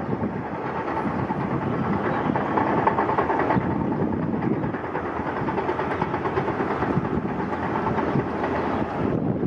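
Heavy earth-moving machinery, dirt scrapers, running steadily with a rough engine rumble that swells a little a few seconds in.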